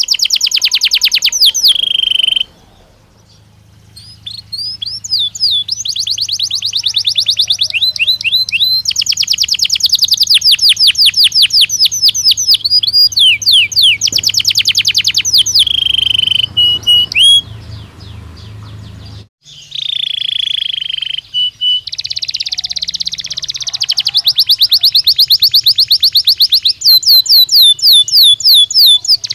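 Belgian canary singing loudly: long, fast trills of rapidly repeated notes, some sliding down in pitch, broken by a few short pauses.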